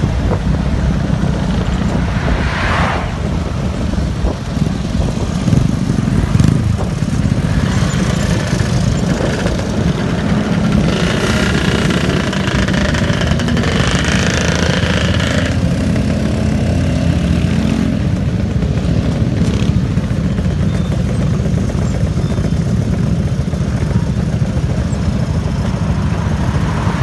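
Motorcycle engine running steadily on the move, with heavy wind rumble on the microphone; a brighter rush of noise passes from about a third of the way in to just past the middle.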